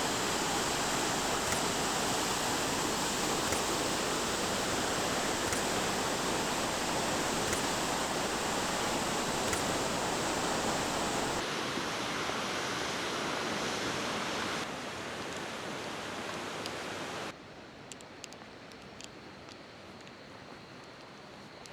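Waterfall roar: a loud, steady rushing of falling water. It drops abruptly about eleven seconds in and twice more, ending as a faint hiss with a few light clicks.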